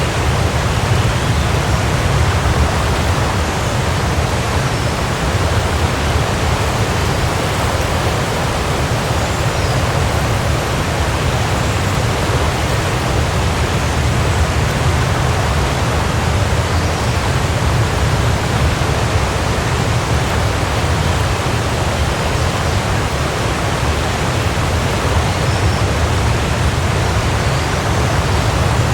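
Waterfall: a steady, unbroken rush of falling water, with a deep low rumble under the hiss.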